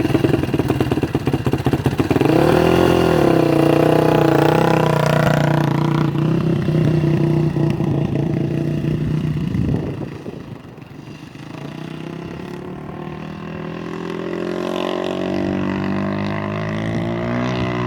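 Dirt bike engine running hard. It revs up a couple of seconds in and holds high, drops quieter about ten seconds in, then slowly rises in pitch and loudness again.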